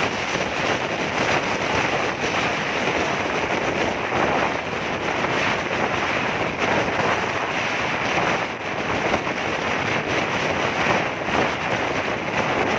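Wind rushing over the microphone while riding at speed, with steady road and engine noise from the moving vehicle beneath it.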